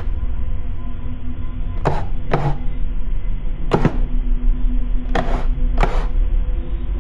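A steady low hum with faint held tones, broken by five sharp knocks or thwacks at uneven intervals, about two seconds in, then near three seconds, five seconds and six seconds.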